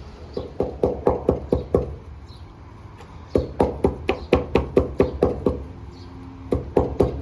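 Knife chopping food on a wooden cutting board: three runs of quick, even strokes, about five a second.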